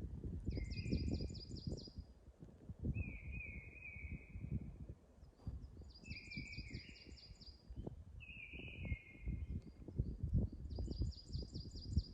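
Woodland songbirds singing, repeating a short phrase every few seconds: a quick run of even high notes with a lower whistled part, over an uneven low rumble.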